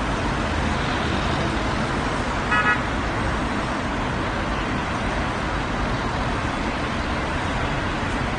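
Steady roar of road traffic, with a single short car horn honk about two and a half seconds in.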